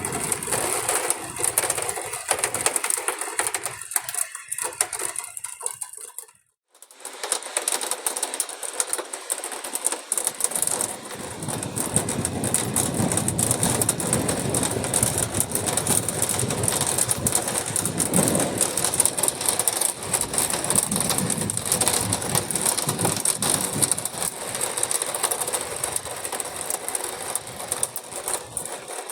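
Heavy rain mixed with small ice pellets pelting a surface in a dense, crackling patter of many tiny hits. It breaks off briefly about six and a half seconds in, then resumes.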